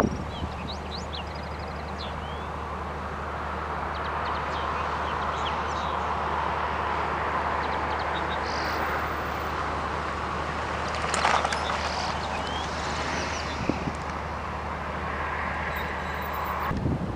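Distant jet aircraft noise swelling and then fading away, with small birds chirping over it in the first few seconds. Brief wind bumps on the microphone a few times.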